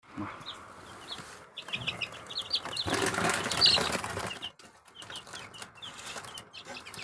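Newly hatched chicks peeping, many short high peeps over and over. A louder rustle of movement comes about three seconds in.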